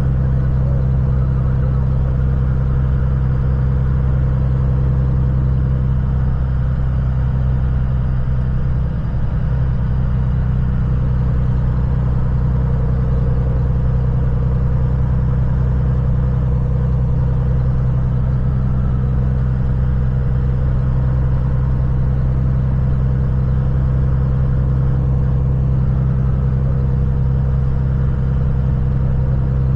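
Kenworth semi truck's diesel engine running with a steady low drone that stays even throughout.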